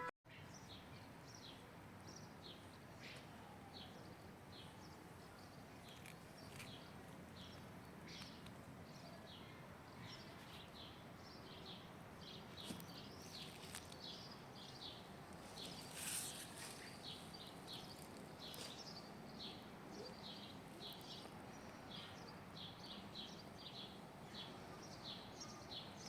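Faint chirping of small birds: many short, high chirps in quick succession over a steady faint background hiss.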